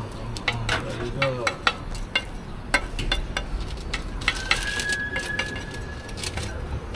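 Metal utensils clinking and knocking against a pan or griddle over a low sizzle of food frying at a street food stall. A thin steady high tone sounds for about two seconds in the middle.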